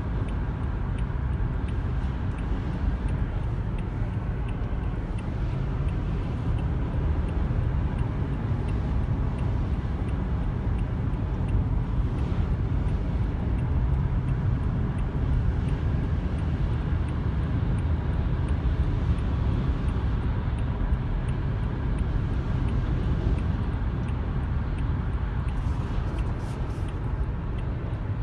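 A car driving on the highway in heavy rain: a steady low rumble of tyres on the wet road, with a hiss of rain and spray over it.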